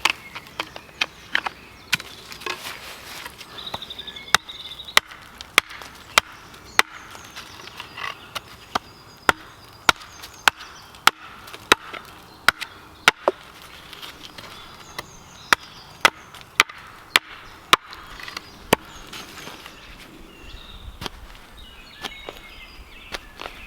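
Wood being chopped: a long run of sharp, evenly paced blows, a little faster than one a second, which stop about 19 seconds in.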